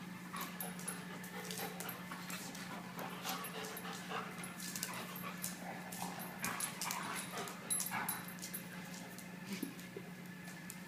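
Dog whimpering now and then, over a steady low hum.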